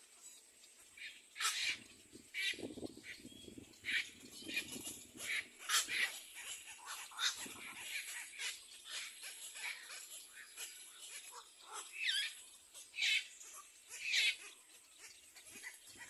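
Little egret nestlings calling from the nest: many short, high-pitched squeaky calls at irregular intervals, typical of chicks begging.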